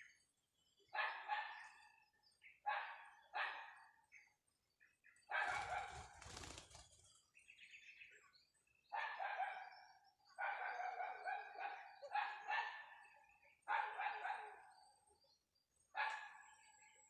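A dog barking repeatedly, the barks often coming two close together, with a burst of rustling or flapping noise about five to seven seconds in.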